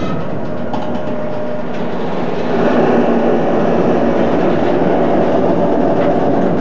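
Empty covered cement hoppers rolling past close by, a steady rumble and rattle of wheels and trucks on the rails that grows louder about two and a half seconds in, recorded through a VHS camcorder's microphone.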